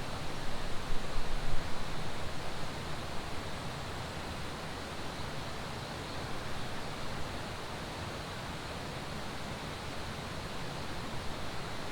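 Steady rush of flowing water, with wind gusting on the microphone during the first two seconds or so.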